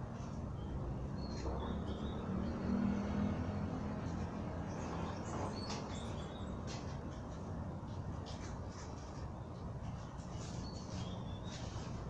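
A few short, high bird chirps, clustered about a second in and again near the end, over a steady low hum.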